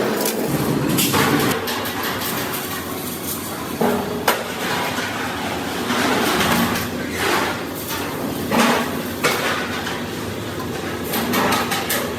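Hammer striking sheet metal in irregular blows, with a steady workshop noise underneath.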